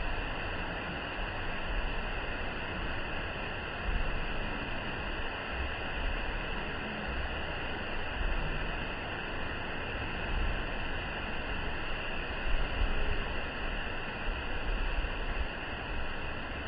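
Waterfall: a steady, even rush of falling water, with irregular low thumps underneath.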